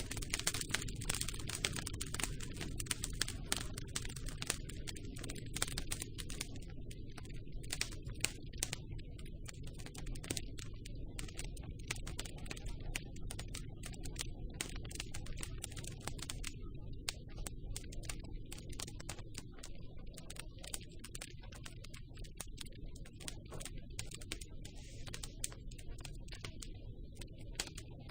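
Campfire burning, wood crackling and popping in quick irregular clicks over a steady low rumble of the flames.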